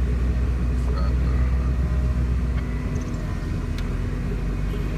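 A vehicle engine running steadily with a low rumble, easing off a little about halfway through.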